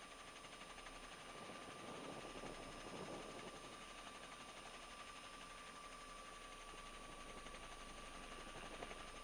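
Faint steady hiss with a thin, steady high tone from a police radio channel recording between transmissions, with a faint low rumble swelling about two seconds in.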